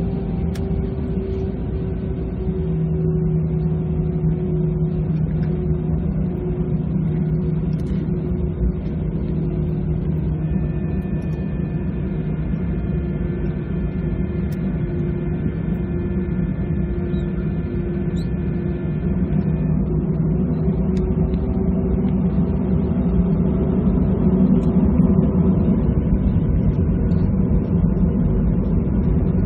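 Airbus A320-214 jet engines (CFM56-5B) droning steadily, as heard inside the passenger cabin. A set of higher, steady whining tones comes in about ten seconds in and stops about ten seconds later.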